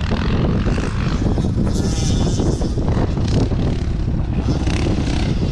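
Dirt bike engine running, heavily masked by wind rumbling on the microphone.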